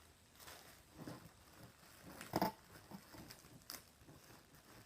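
Packaging being handled and opened: scattered rustling and crinkling, with one sharper, louder crackle about two and a half seconds in.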